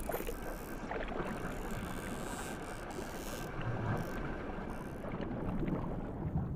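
A steady rush of moving water with a few faint scattered clicks.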